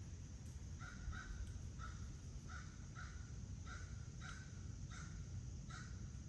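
A corvid calling in a run of about nine short calls, roughly two a second, from about a second in until near the end.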